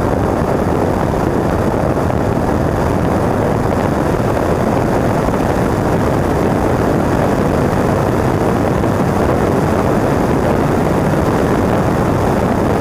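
1959 Triumph TR3A's four-cylinder engine running hard at steady high revs under full load, mixed with heavy wind rush, heard loud from inside the open cockpit.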